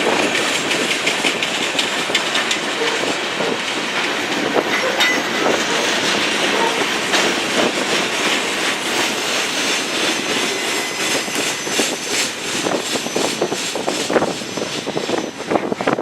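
A BNSF freight train's cars rolling past, steel wheels clattering rhythmically over the rail joints with a steady rumble and rush; near the end the clicks come further apart and stand out more clearly.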